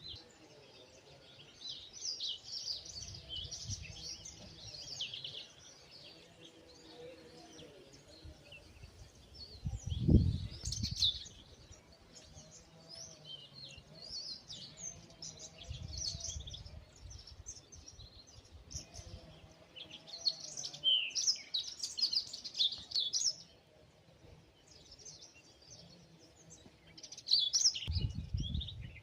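Small birds chirping in bursts of quick, high calls, with short low rumbles now and then, the loudest about ten seconds in.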